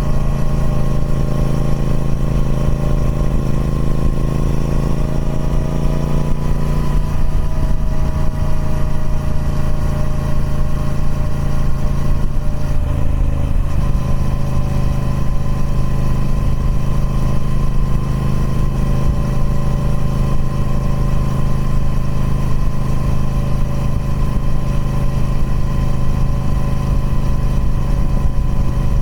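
Triumph Speed Twin 1200's parallel-twin engine running through its stock exhaust at a steady, even note. Its pitch shifts slightly about 7 seconds in and again about 13 seconds in.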